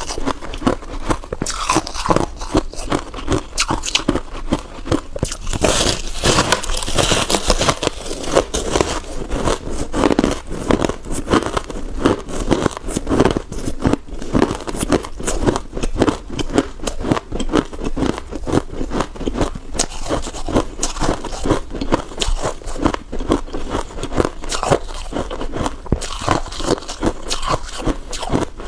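Freezer frost being bitten and chewed close to the microphone: a dense, continuous run of rapid crunches.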